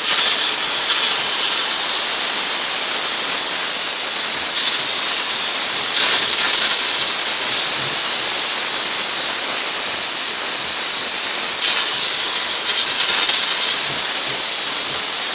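Steam cleaner jetting steam in a steady, loud hiss, with small shifts in level as the nozzle moves over the inside of a refrigerator.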